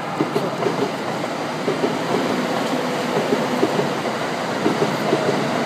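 Electric train passing on the tracks close by: a steady rolling rumble broken by repeated clacks as the wheels cross rail joints.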